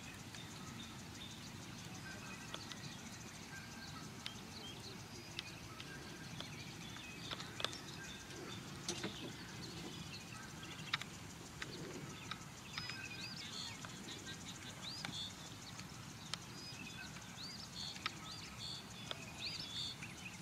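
Outdoor ambience with small birds chirping in short repeated calls, more often in the second half, over a steady low background noise and a few scattered sharp clicks.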